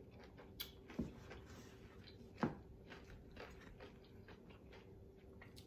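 Faint close-up chewing of a fried chicken wing: scattered wet mouth clicks and a few sharper bites.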